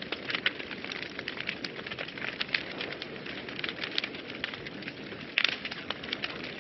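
Wood fire burning in a fireplace: a steady low hiss with many irregular crackles and pops, a few louder pops about five and a half seconds in.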